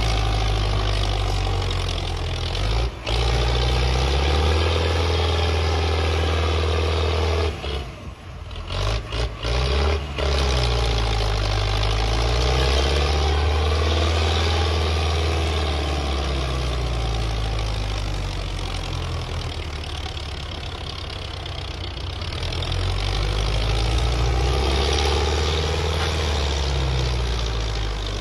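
Belarus tractor's diesel engine running, its speed rising and falling several times. The sound drops out briefly a few seconds in and again several times about eight to ten seconds in.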